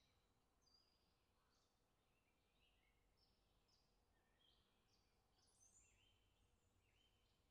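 Near silence, with faint bird chirps and calls at varied pitches throughout.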